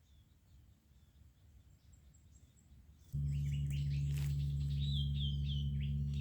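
Birds chirping faintly, then about halfway through a loud, steady low hum starts abruptly. Over the hum a bird calls a quick run of short, falling notes.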